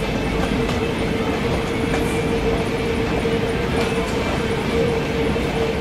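Steady low rumble with a constant hum, the running noise heard inside a vehicle.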